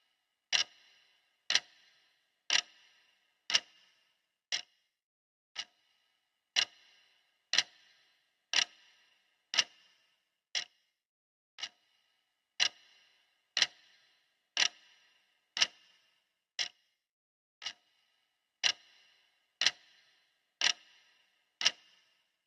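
Clock ticking sound effect, one sharp tick every second, each with a short ringing tail and some ticks a little louder than others.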